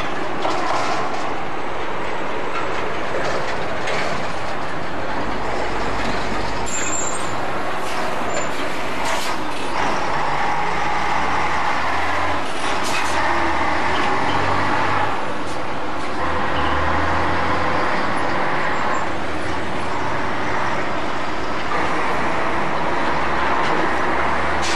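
Diesel locomotive and its train passing: a steady rush of engine and wheel noise with a low rumble that swells and eases.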